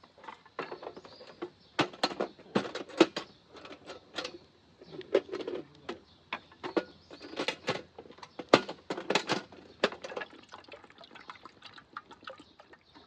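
Irregular clicks and knocks of objects being handled and set down, coming in quick clusters and thinning out near the end.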